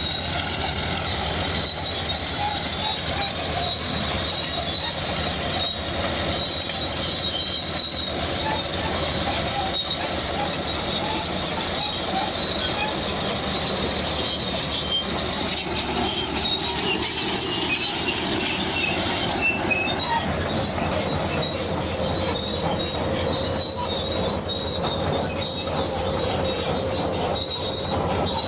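Crawler bulldozer working, its diesel engine running under a steady high squeal from the steel tracks.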